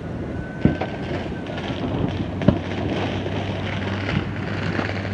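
Distant fireworks going off across the city: a few scattered bangs, the loudest about two and a half seconds in, over a steady wash of city noise and wind on the microphone. A faint high tone slowly rises and falls in the first second or two.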